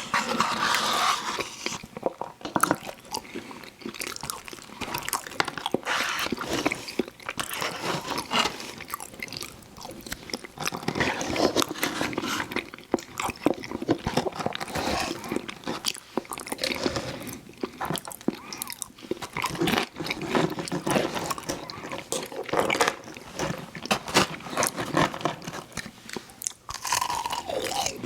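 Close-miked eating: crunchy bites and wet chewing of fried fast food, a steady run of irregular crackles and crunches.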